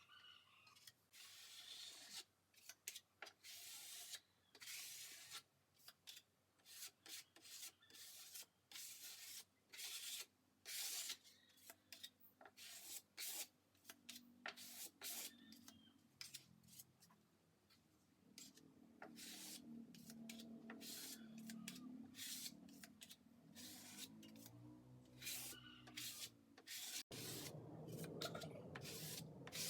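Wood being rubbed by hand with an abrasive, in quick irregular scraping strokes on plywood. A faint low wavering hum runs under the strokes in the second half.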